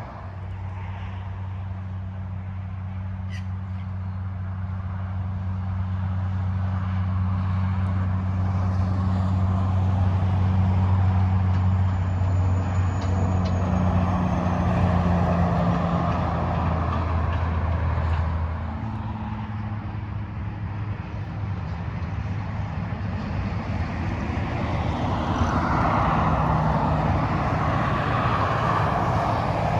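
Freeway traffic passing at speed, trucks among it: a steady low engine drone and tyre noise that swell as vehicles pass, peaking at about the middle and again near the end.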